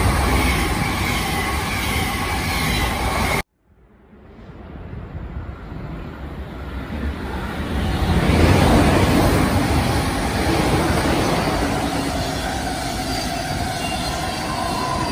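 Double-deck passenger train rushing past at speed with loud rail and wheel noise, cut off suddenly about three and a half seconds in. Then a second passenger train approaches, growing louder over several seconds, and runs past with steady wheel-on-rail noise.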